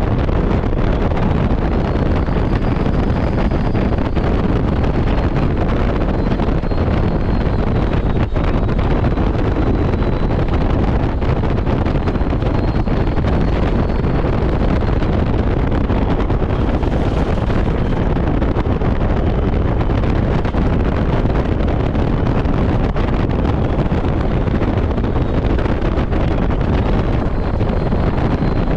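Steady road and wind noise from a moving semi truck hauling a load, with wind buffeting the microphone.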